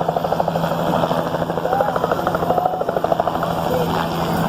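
Helicopter's main rotor chopping rapidly and evenly over a steady low engine hum.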